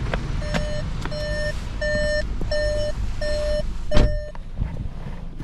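A car's electronic warning beeper sounds six evenly spaced beeps of one steady pitch, about 0.7 s apart. Near the end of the beeps comes a loud thump, and the background gets quieter afterwards.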